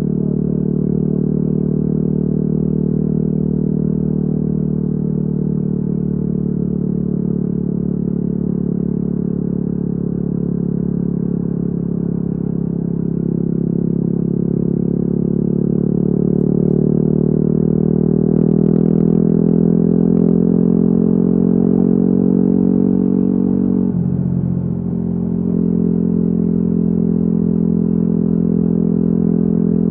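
Yamaha WR250R's single-cylinder four-stroke engine through an FMF exhaust, running on the move. The engine note climbs slowly as it pulls through the middle, drops briefly about three-quarters of the way through, as on a gear change or throttle lift, then settles steady again.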